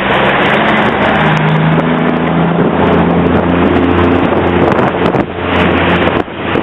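Snowplow truck driving past with a steady engine drone, over a heavy rushing noise.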